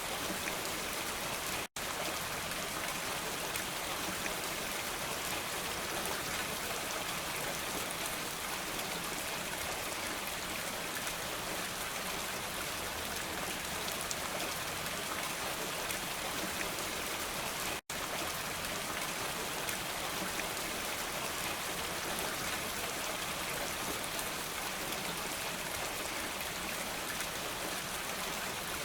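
Steady, dense rainfall with pattering drops, with two momentary dropouts to silence, about two seconds in and just before the midpoint.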